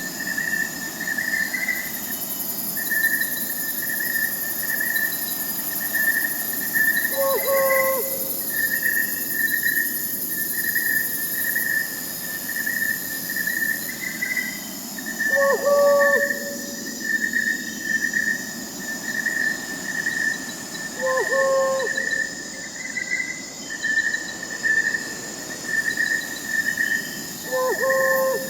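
Night forest soundscape: crickets chirping steadily in a fast pulsing trill, with a short owl call repeated four times, about every six to seven seconds.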